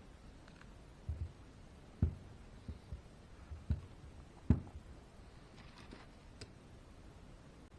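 Irregular light knocks and clicks of small parts and tools being handled while an RC truck's rear axle is assembled. There are about six knocks in the first half, then a few fainter clicks.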